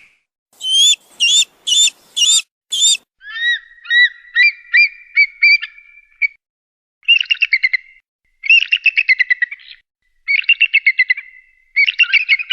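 A kite calling. First come five short, sharp whistled notes, then a string of rising whistled notes, then four bursts of quick whinnying trills with short pauses between them.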